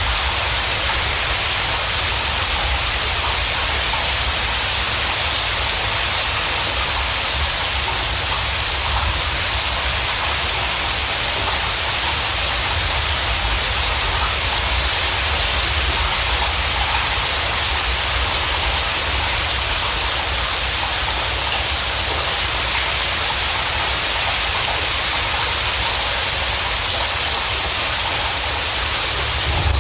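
Steady rain falling: an even, unbroken hiss with a low rumble beneath.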